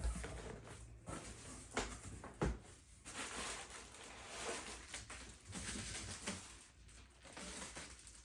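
Cardboard box and packaging being handled and opened: a few sharp knocks in the first few seconds, then uneven rustling and scraping.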